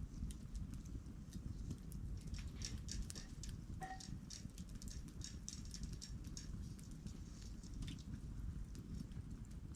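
Wood campfire crackling: frequent, irregular small pops and snaps over a steady low rumble of the burning fire, with one brief faint whistle about four seconds in.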